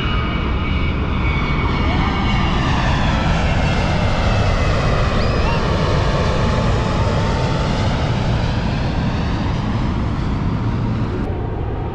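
Airplane passing low overhead: a loud, steady engine rush with a slow sweeping whoosh as it goes by.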